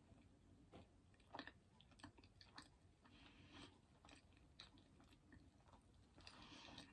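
Faint close-miked chewing with the mouth closed: soft wet mouth clicks and crackles at an uneven pace.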